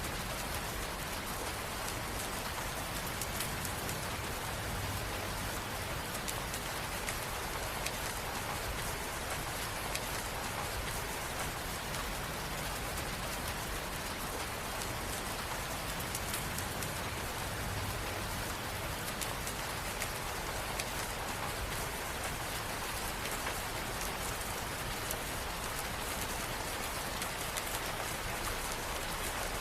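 Steady, even rain falling on a hard surface, with small scattered drop ticks.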